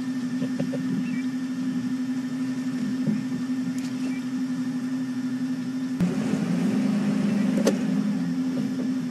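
Safari game-drive vehicle's engine idling steadily, growing a little louder and rougher about six seconds in, with one sharp click shortly after.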